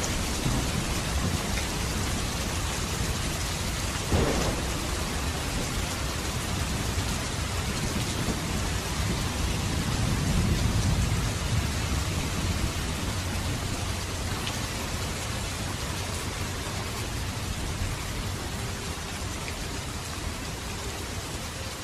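Steady rain pouring on surfaces, with low thunder rumbling underneath. The thunder swells about ten seconds in and eases off toward the end. A sudden sharp sound cuts through about four seconds in.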